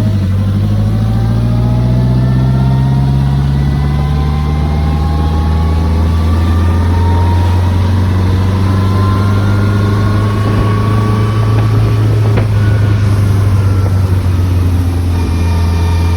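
Morgan Plus 4 sports car's engine and exhaust running under load at road speed, over wind and road noise. The engine's pitch rises slowly through the first half as the car gathers speed, then holds steady.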